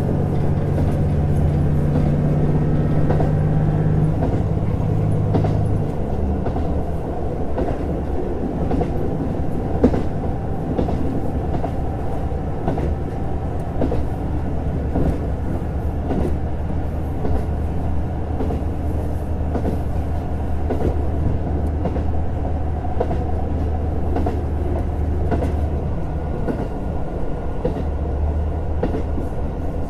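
JR Hokkaido KiHa 150 diesel railcar running on the line: its engine note falls away about four to six seconds in, and the car rolls on with a steady low rumble and the wheels clicking over rail joints.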